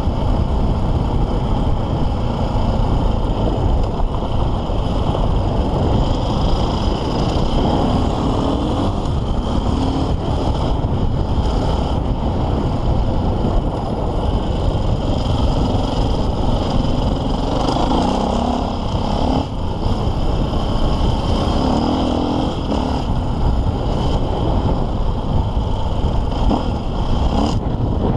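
KTM EXC 450 single-cylinder four-stroke enduro engine being ridden off-road, heard from on the bike, its revs rising and falling continuously as the rider works the throttle.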